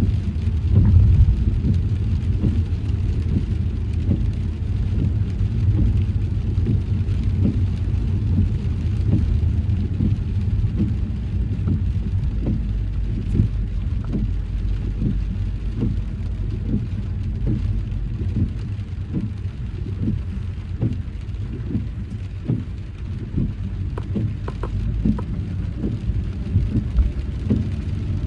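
Car driving in rain: a steady low rumble of tyres and engine, with many short, irregular taps of raindrops.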